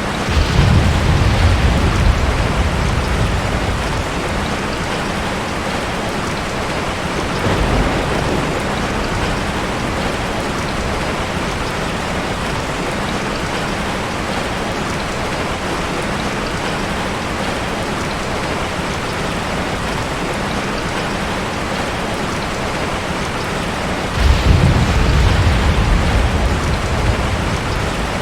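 Heavy rain falling steadily, with thunder rumbling three times: for a few seconds near the start, briefly about eight seconds in, and again for about four seconds near the end.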